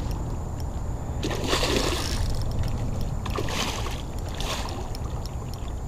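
A hooked redfish splashing at the water's surface three times as it is drawn in, over a steady low rumble.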